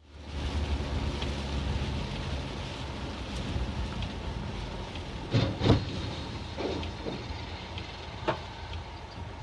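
Vehicle driving noise: a steady road and engine rumble, with a couple of short thumps about five and a half seconds in and another near eight seconds.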